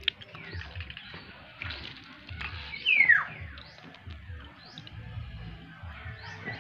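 A bird's call: one loud whistle sliding down in pitch about three seconds in, over faint high chirps from other birds.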